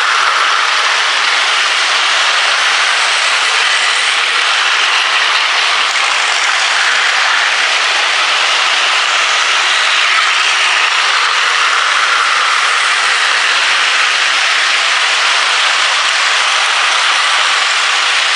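Plarail toy trains running on plastic track: a steady, dense whirring of small battery motors and gears.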